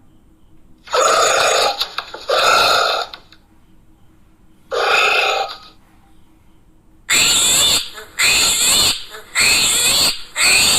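Animal calls played one after another: two calls about a second in, a single call near the middle, then four shorter calls in quick succession near the end.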